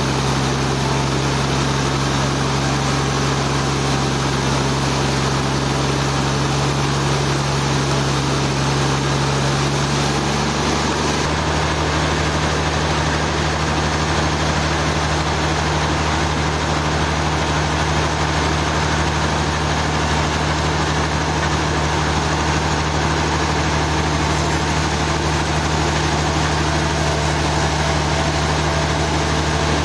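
Sawmill engine running steadily, its hum shifting to a different pitch about a third of the way through.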